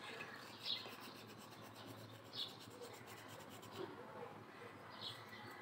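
A few short, high bird chirps, spaced a second or two apart, over faint background noise.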